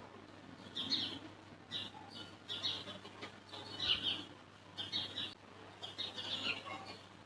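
A bird chirping in short calls, about one a second, over a faint steady hum.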